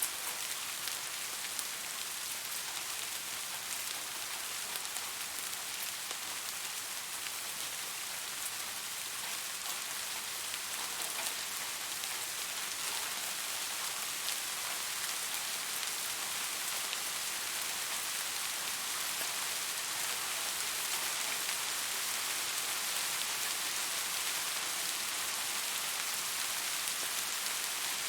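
Steady rain falling, a dense even hiss with fine drop patter and no pauses.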